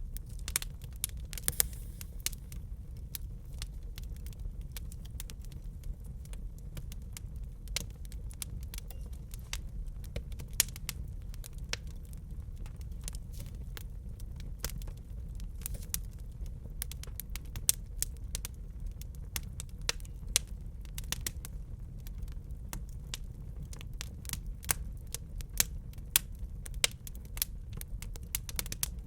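Wood fire burning in a fireplace: frequent sharp crackles and pops scattered irregularly over a steady low rumble, with a few louder snaps.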